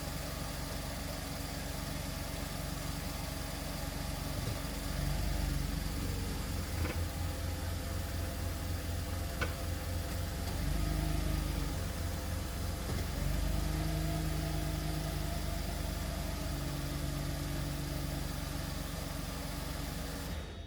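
1994 Mercedes-Benz E320 coupe's 3.2-litre straight-six idling after a cold start, steady, with a few brief swells in engine level.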